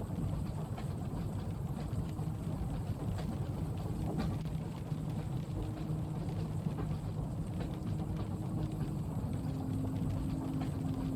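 Train carriage ambience: a steady low rumble of a train in motion, with a faint hum and light scattered ticks of rain.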